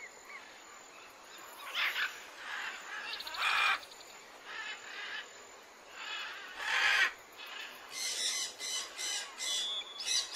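Birds calling: a few separate calls spaced a second or two apart, then a quick run of short repeated calls near the end.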